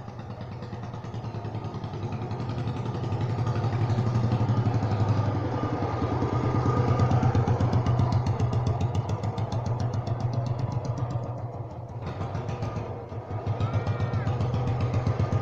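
Motorcycle engine running with a steady, rapid firing pulse. It grows louder over the first few seconds, dips about twelve seconds in, then picks up again.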